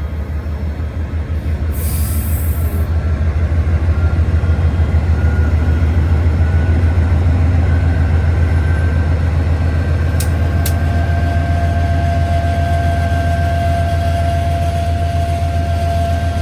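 Freight train rolling past with a steady, loud low rumble. About halfway through, a thin steady squeal from the wheels comes in and holds. A couple of sharp clicks sound partway through.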